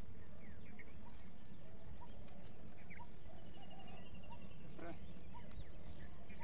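Birds chirping and calling in scattered short notes, with a brief trill midway, over a steady low rumble.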